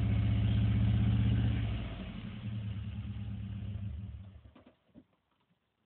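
A Ford Fiesta's petrol engine running at raised revs, which drop back to idle about a second and a half in. The engine is switched off a little after four seconds, followed by a faint knock.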